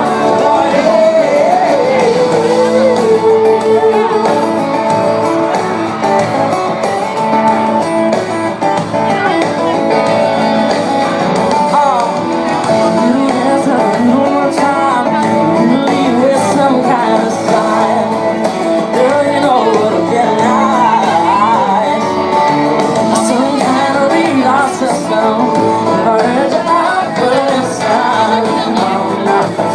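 Live country-pop band music with a man singing lead over guitars, playing steadily throughout.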